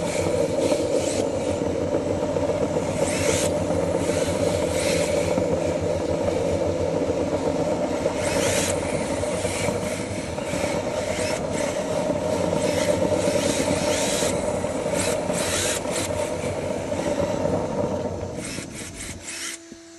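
Radio-controlled drift car running, its electric motor giving a steady hum while the tyres scrub and slide across the surface in repeated short bursts. It fades away near the end.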